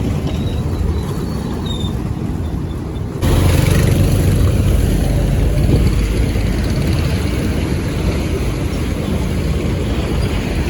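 Road traffic noise with a heavy low rumble, stepping abruptly louder about three seconds in.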